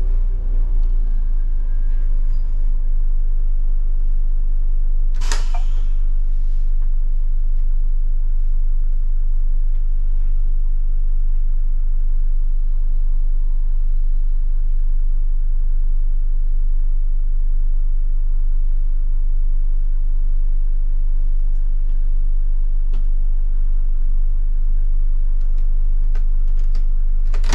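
Scania K250IB bus engine running steadily under a loud low rumble, heard from on board. A short, sharp hiss of released air comes about five seconds in.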